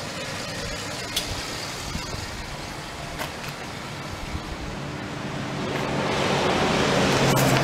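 A few faint clicks and knocks over a low steady background, then a vehicle engine's steady note growing louder from about five seconds in and holding.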